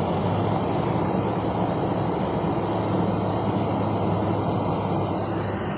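1991 Ford F-150's 5.0 V8 pickup driving in snow: a steady engine drone under tyre and road noise, easing slightly near the end.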